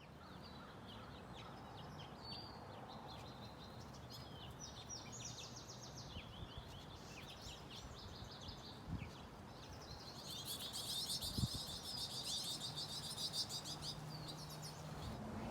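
Small birds chirping and twittering, with a faster, denser run of chirps in the second half, over a faint steady low hum.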